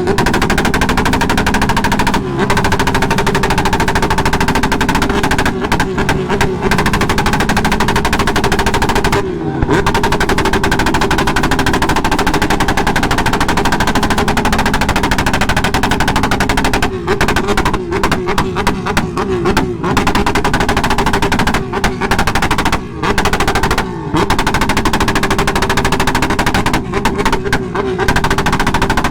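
Motorcycle engines revving hard with a fast, rattling exhaust note, the pitch wavering as the throttle is worked, dropping off briefly several times.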